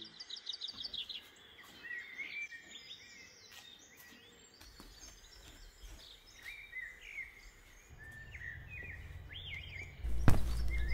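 Birds chirping and singing faintly in short, scattered calls, with a quick run of notes near the start. A low rumble comes in about halfway and grows louder near the end.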